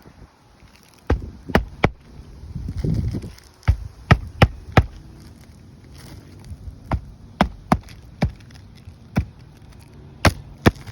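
A series of sharp knocks at an irregular pace, about one or two a second, with a low rumble about three seconds in.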